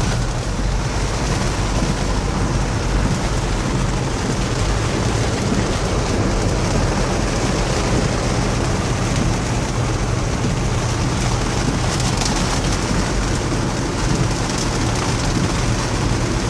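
Suzuki Vitara driving through floodwater: a steady rush of water over the low, even running of the engine.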